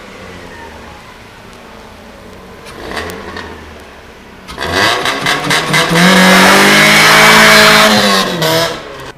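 1994 Ford Escort GT's four-cylinder engine revving hard as the car accelerates away: a low running hum at first, then about halfway in a sudden loud climb in pitch that holds near full throttle and drops off just before the end.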